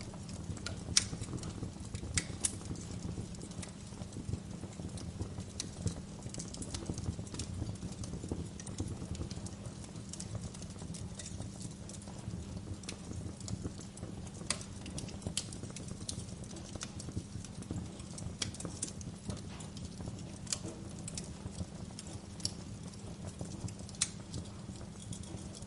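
Wood fire crackling in a fireplace: irregular sharp pops and snaps over a low, steady rumble, the loudest pop about a second in.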